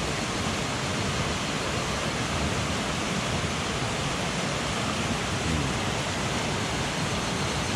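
Mountain stream water rushing steadily, an even, unbroken hiss.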